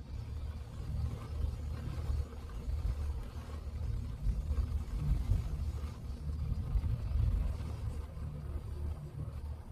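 Citroën C3 driving, heard from inside the cabin: a steady low rumble of engine and road noise that swells a little for a few seconds in the middle.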